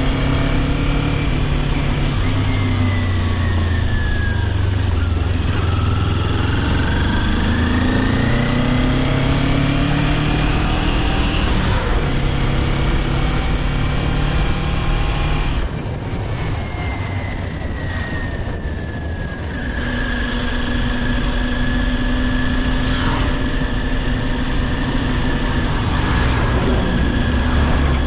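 Kawasaki Ninja 400's parallel-twin engine running under way over rushing wind and road noise. The engine note rises and falls with the throttle and gear changes, drops back a little past halfway, then holds steady at cruise for the last third.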